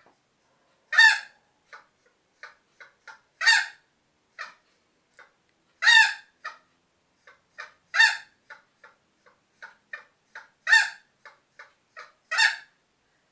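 Hen cackling: runs of short clucks, each broken by a loud squawk, six loud calls about two seconds apart.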